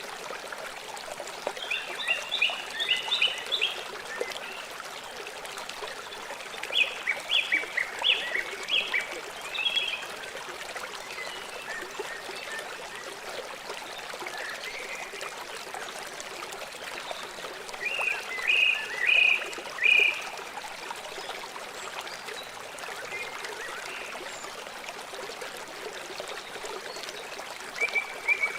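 River water running steadily, with four bursts of short, high, rapidly repeated animal calls spread through it.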